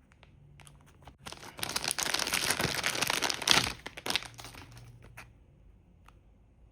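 Packaging crinkling and rustling as it is handled, for about three seconds in the middle, with a few small clicks before and after.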